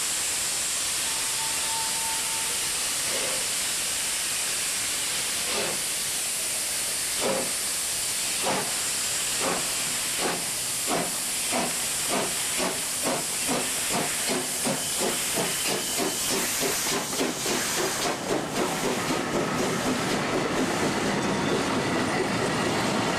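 Steam locomotive Gr 740 starting away: steam hisses steadily, then the exhaust chuffs begin slowly, about a second apart, and quicken until they run together as the engine gathers speed.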